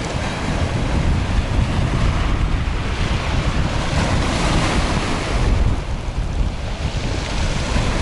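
Strong wind buffeting the microphone: a loud, choppy low rumble with a rushing hiss over it, swelling in a gust a few seconds in and easing off again.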